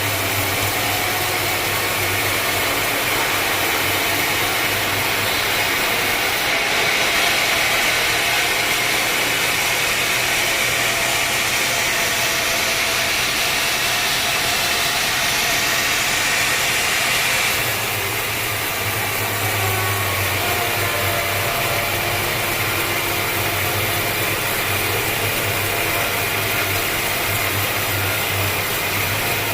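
Sawmill machinery running steadily with a dense clattering din and a constant low hum. It grows louder and brighter from about a quarter of the way in until just past halfway, then settles back.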